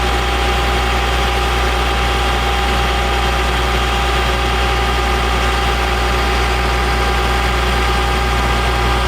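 Caterpillar C7 diesel engine of a Ford F750 bucket truck idling steadily.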